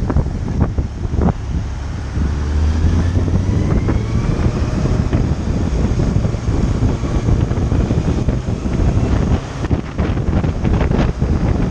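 Heavy wind buffeting the microphone on a moving motorcycle, with the motorcycle's engine running low underneath.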